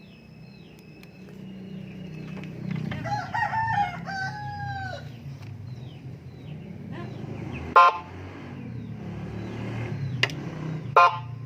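Horn speaker (toa) with a 12-sound double-tone module playing its first sound, a rooster crow, about three seconds in. Two short, sharp, loud blips follow near the middle and near the end.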